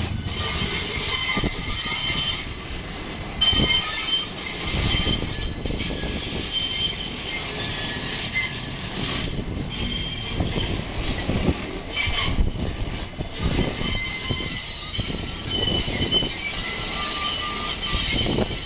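An R68-series subway train's steel wheels squealing against the rails as it runs slowly, several high squeal tones coming and going over the low rumble of the train.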